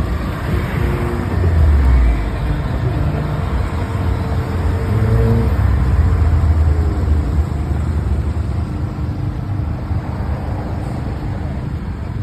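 A car engine running close by, its low rumble swelling about two seconds in and again for a couple of seconds near the middle.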